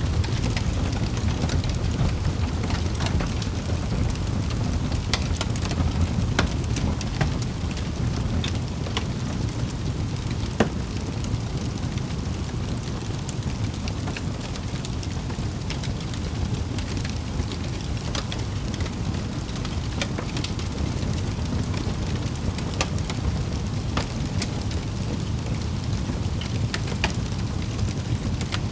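Wood fire crackling in a fireplace: a steady low rumble of flames with frequent sharp pops and snaps scattered irregularly, one louder pop about ten seconds in.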